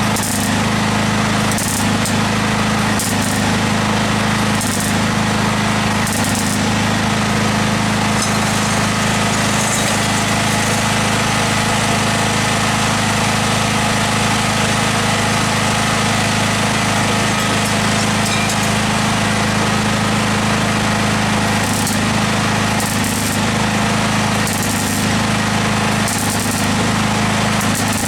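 A welder crackling steadily on steel car bodywork, with a steady low hum underneath.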